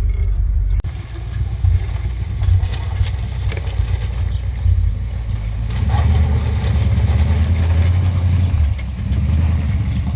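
Ford Bronco's engine running as it is driven over a rough dirt 4x4 track, with scattered knocks and rattles. The engine note rises and steadies about six seconds in.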